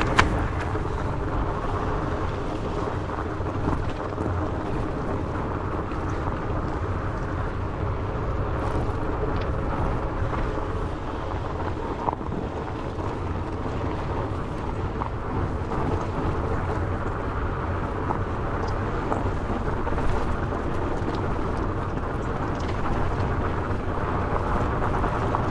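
Steady wind rush on the microphone over the rumble and crunch of a Trek Farley fat bike's 4.8-inch Maxxis Minion tyres rolling fast on a loose gravel fire road. A few sharp knocks from the bike come over bumps, one just after the start and one about halfway.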